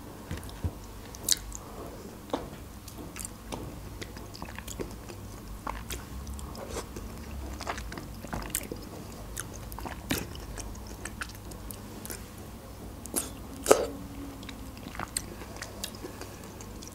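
Close-miked chewing and wet mouth clicks of a person eating peeled red grapefruit segments, with scattered smacks and one sharper click late on.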